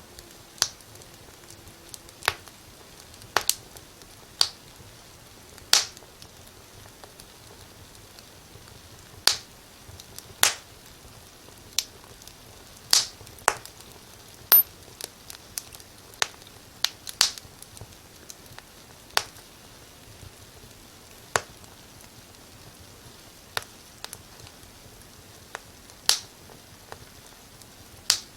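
Wood fire crackling in a fireplace: sharp, irregular pops and snaps at uneven intervals, a few louder than the rest, over a faint steady hiss.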